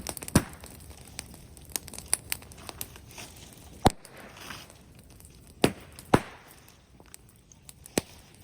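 Bonfire of brush wood and bamboo crackling. About five loud, sharp pops come at irregular intervals among smaller snaps.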